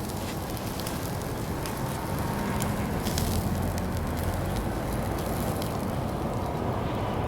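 Fire crackling in a Uniflame Fire Grill fire pit, with scattered small pops over a steady low rumble that swells slightly after a couple of seconds.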